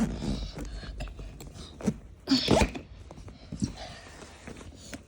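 Clothes and belongings rustling as a suitcase is rummaged through, with one short loud burst about two and a half seconds in.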